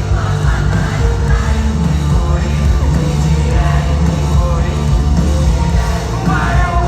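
Live rock band playing loud at a concert, with a heavy, dense bass and no breaks.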